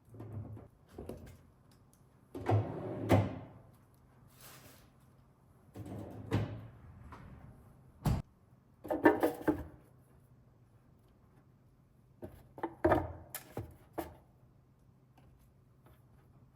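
Kitchen items being handled and set down: separate clusters of knocks and clatters a few seconds apart, with a single sharp knock about eight seconds in.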